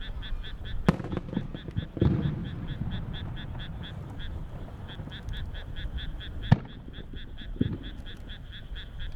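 Single aerial firework shells bursting with sharp bangs and low rolling booms, four in all: the loudest about a second in and at about six and a half seconds. Under them runs a steady rapid pulsing chorus, about five pulses a second.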